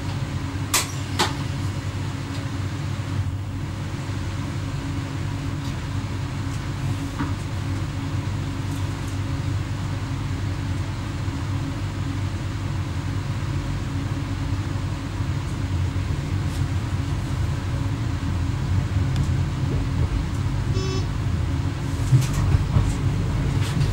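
Steady low running rumble inside the cab of an X11 electric multiple unit under way, with a constant hum over it. A few sharp clicks come about a second in and again near the end, and a short high beep sounds briefly a little before the end.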